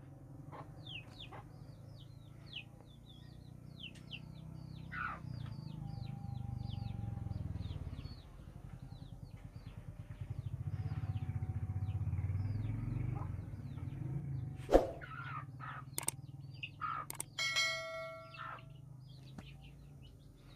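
Small birds chirping over and over, short falling chirps, over a low hum that swells twice. Near the end come a few sharp clicks and a brief call with a ringing, many-toned pitch.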